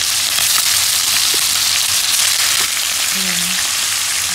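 Chicken thighs frying in hot butter and melted brown sugar in a frying pan: a loud, steady sizzle with small pops.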